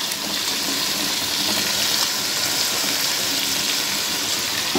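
Chicken feet frying in oil in a karahi, a steady sizzle, as ginger-garlic paste is added.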